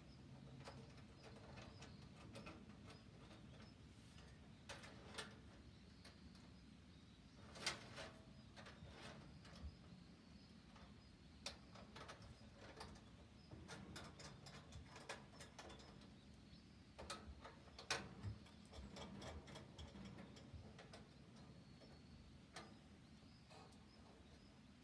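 Faint, irregular crackling and popping of a wood fire burning in a Honma SKS-410 wood stove, with sharper pops about 8 and 18 seconds in over a low steady hum.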